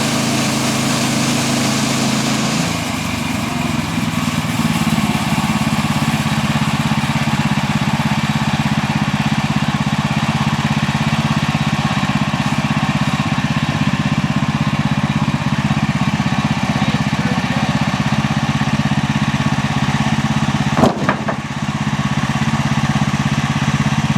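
Portable sawmill's gasoline engine running steadily at constant speed, with a hissy edge and slightly higher pitch for the first few seconds before settling. A single brief knock comes near the end.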